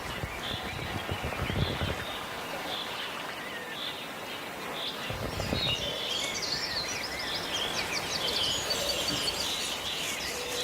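Small birds chirping and twittering over a steady outdoor background hiss, the chirping growing busier about halfway through. A few low rumbles come near the start.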